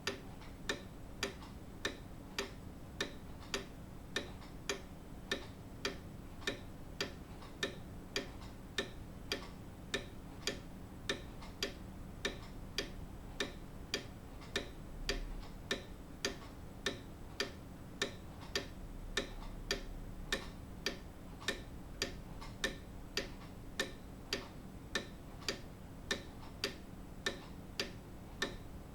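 Grandfather clock ticking: its pendulum escapement gives a steady, even tick with no break.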